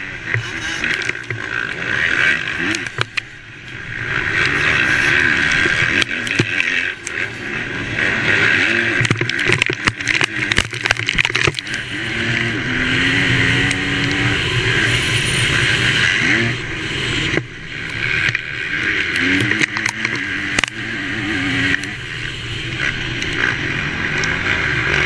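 Motocross bike engine at race pace, its pitch repeatedly rising and falling as the throttle is opened and closed, over a steady rush of wind and track noise. The throttle shuts off briefly about three seconds in and again about seventeen seconds in.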